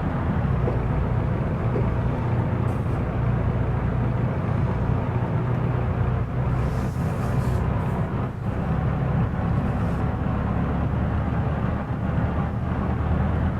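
Car engine running steadily at an even, low speed, with no clear revs rising or falling.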